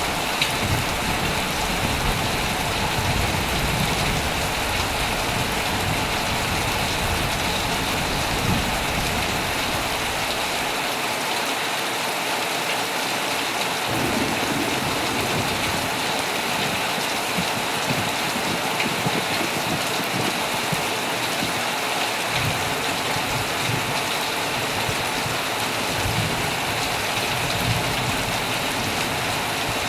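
Heavy rain falling steadily on a tent, with low thunder rumbles underneath that die away for a few seconds partway through and then come back.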